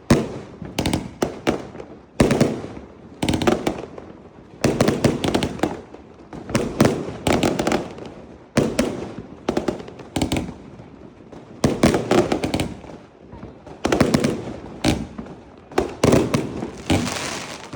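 Fireworks going off in steady succession: volleys of sharp bangs and cracks about once a second, each trailing off in an echo.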